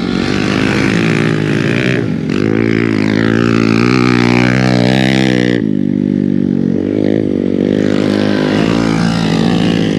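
Hero Xpulse 200 motorcycle engine through an MW Performance aftermarket exhaust, revving under load: the revs climb for a few seconds, drop sharply about halfway through, then build again.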